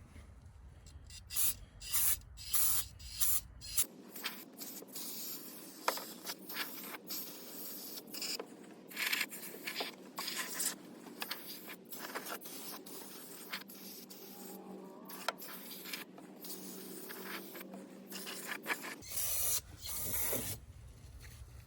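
Aerosol brake cleaner sprayed in many short hissing bursts, one after another, to cut leftover grease off a metal battery tray.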